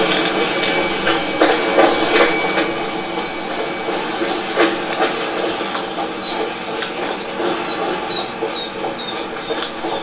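Freight train's covered hopper wagons rolling along the rails with steady wheel clatter and rumble, slowly fading as the end of the train draws away. A string of short, high wheel squeaks comes in the second half.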